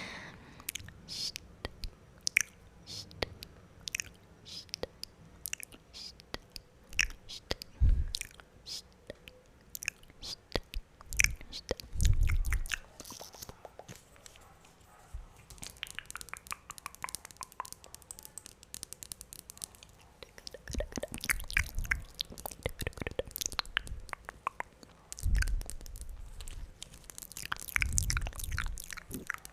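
Wet mouth sounds close to the microphone: irregular tongue clicks and lip smacks, sometimes in quick clusters, with a few short low thumps.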